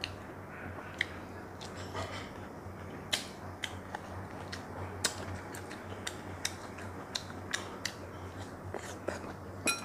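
Close-miked chewing of boiled corn: soft, scattered mouth clicks and smacks every half second or so, over a faint steady low hum.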